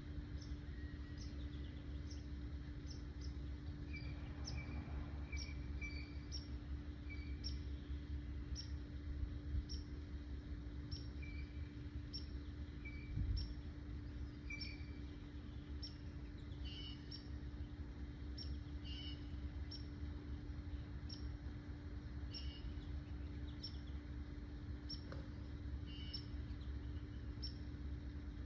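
Small birds chirping: a high, short chirp repeated evenly, a little more than once a second, with lower two-note calls joining in now and then. A steady low hum runs underneath, and a single soft thump comes about halfway through.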